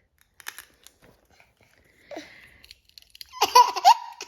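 A few light clicks, then about three seconds in a young child's high-pitched squealing laughter breaks out.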